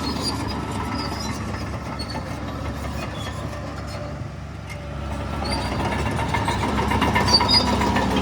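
Heavy diesel engine of earthmoving machinery running, easing off about four seconds in and building up again toward the end, with scattered faint clinks.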